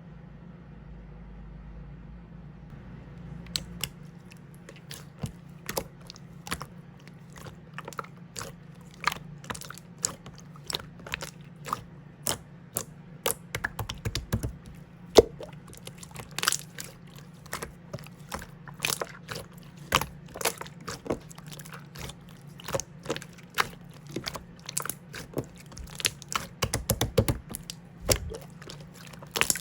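Clear slime being pressed and worked by hand, making irregular sticky clicks and pops that begin a few seconds in and come thick and fast after that.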